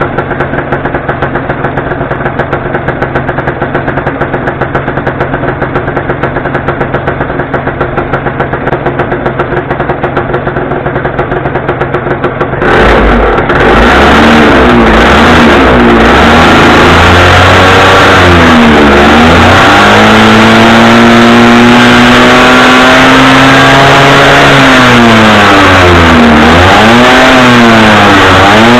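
Yamaha Grand Axis 100's 100cc two-stroke single-cylinder engine idling steadily, freshly fitted with a cleaned carburettor. Partway through, the throttle is opened and the engine revs up and down several times.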